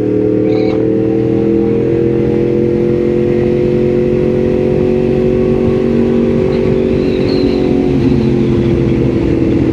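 Yamaha MT-10 SP's crossplane inline-four running through a link pipe and Austin Racing end can while the bike is ridden at a steady pace. The note rises a little at first, then holds steady with a slight drop near the end.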